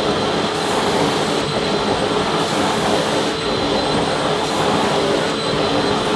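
Vacuum cleaner running steadily: a loud motor drone with a steady whine. The high hiss swells and fades every second or so.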